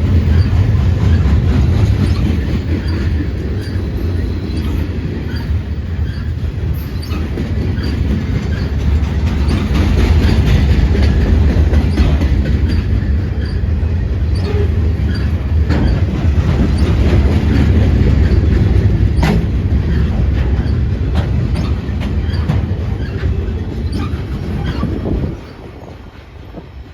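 Freight train of pipe-loaded cars rolling past: a steady, loud low rumble of steel wheels on rail with scattered clacks over the rail joints. The rumble drops off sharply near the end.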